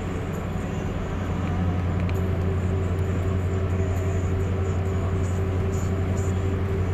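Steady low drone of a car's engine and road noise, with a faint steady tone above it.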